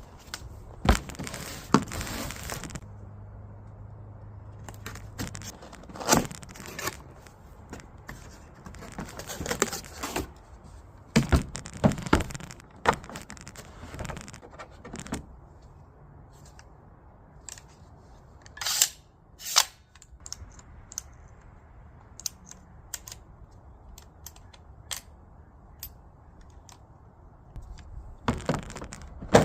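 Carpentry work sounds: a string of sharp knocks and clicks mixed with short rasping bursts of tool noise, and a low steady hum for a couple of seconds early on.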